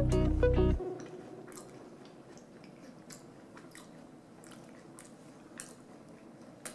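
Background music that cuts off suddenly about a second in, then a person quietly chewing a soft chocolate chip cookie bar, with faint, irregular mouth clicks.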